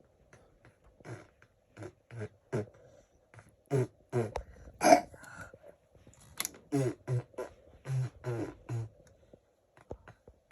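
A small child making a string of short, wordless vocal noises and mouth sounds, irregular and choppy, like beatboxing.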